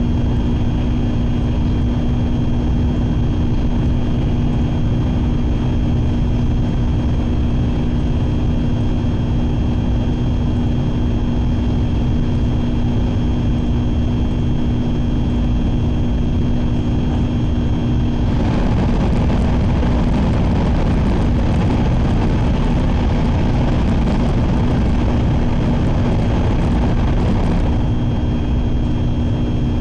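Running noise inside the cabin of a Sakura Shinkansen at speed: a steady low rumble with a faint hum. About eighteen seconds in the noise swells, louder and rushing, for roughly nine seconds before settling back.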